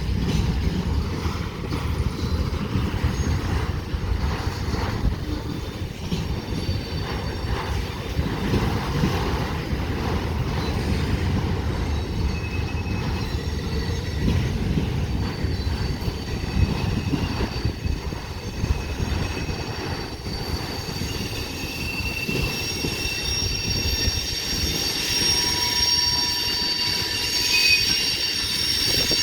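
Freight cars rolling past with a steady low rumble and the clatter of steel wheels over the rails. From about halfway in, high thin wheel squeal sets in and grows louder toward the end: wheel flanges squealing as the train works around a curve.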